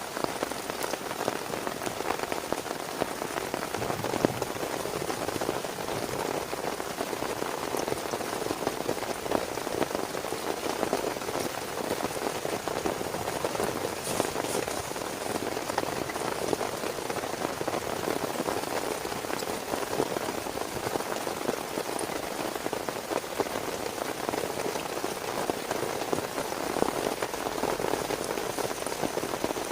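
Steady heavy rain, a dense, even patter of individual drops hitting a surface.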